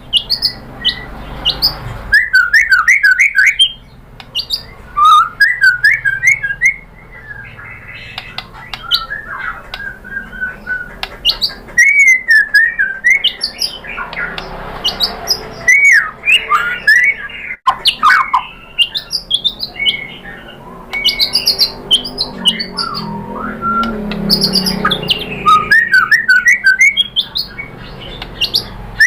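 White-rumped shama (murai batu) singing a long, varied song: rapid runs of chattering notes alternate with whistled notes that slide up and down, in phrases a second or two long with short gaps between them.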